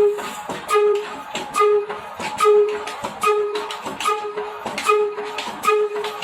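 Slow diesel oil engine running steadily, each exhaust beat a hollow hoot with a knock, about one beat a second.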